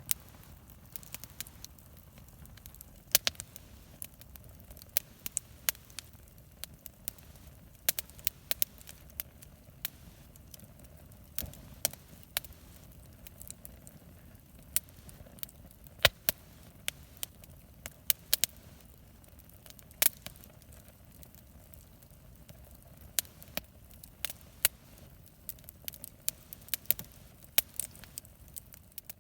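Wood bonfire burning and crackling, with irregular sharp pops scattered throughout over a faint steady low rumble of the flames.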